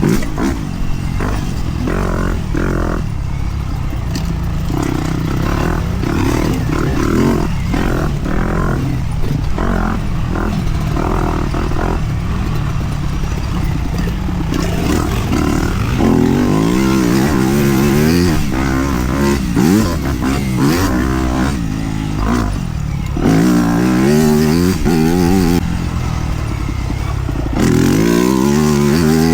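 Dirt bike engine being ridden hard, its pitch rising and falling over and over as the throttle is opened and closed through the gears.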